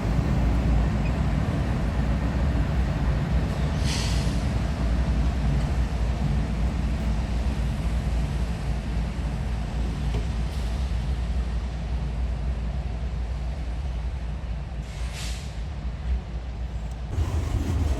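Steady low rumble of a car being driven, heard from inside the cabin, with a brief hissing swish about four seconds in and another near the end.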